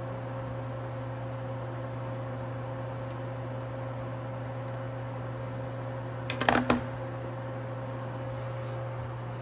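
Steady low machine hum with a faint tone above it, and a quick run of four or five sharp clicks about six and a half seconds in.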